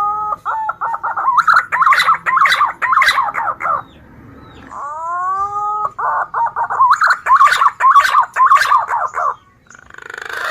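Green pigeon (punai) song played as a hunting lure call: a rising whistled note, then a quick run of wavering whistles, given twice. A short hissing rasp follows near the end.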